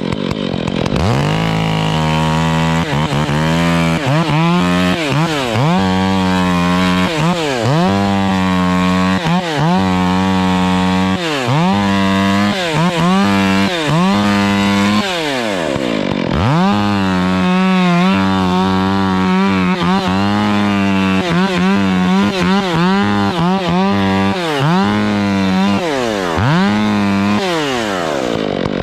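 Stihl chainsaw running at high revs, its engine pitch repeatedly dropping and climbing back about once a second, with a short break about halfway through.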